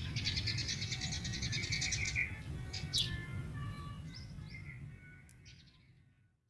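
Yellow-vented bulbul chattering in a long, rapid trill of high notes, then a few scattered calls, fading out over the last couple of seconds.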